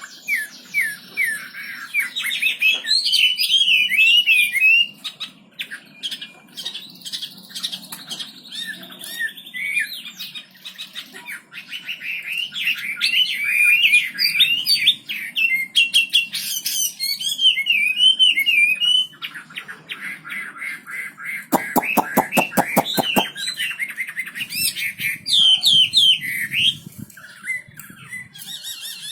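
A wambi songbird singing continuously in fast, chattering phrases of quick sliding notes. About twenty seconds in, the song breaks into a fast, harsh rattle of evenly repeated notes before going back to the chatter.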